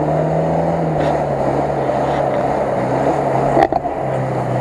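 Lada Niva's four-cylinder engine held at steady revs under load while the car is stuck in a muddy rut, straining to pull free; the pitch drops a little about a second in. A single sharp knock near the end.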